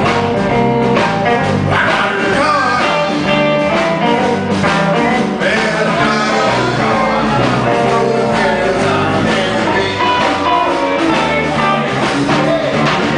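Instrumental intro of a blues-rock band: guitar with bass and drums playing a steady groove.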